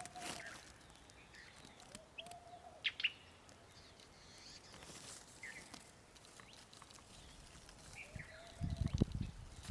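Wild forest birds calling: a few short, sharp high chirps and several lower, arched whistled notes, spaced apart. A few dull low thumps near the end.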